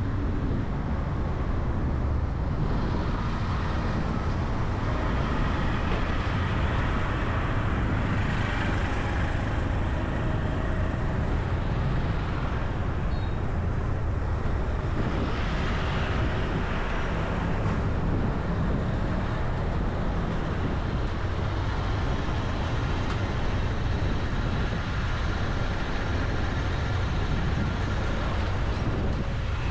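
Road traffic noise: a steady low rumble of vehicles, with louder swells as vehicles pass about a third of the way in and again about halfway through.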